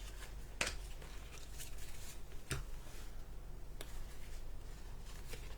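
Faint clicks and slides of baseball cards being handled and flipped one by one, a light snap roughly every second, over a low steady hum.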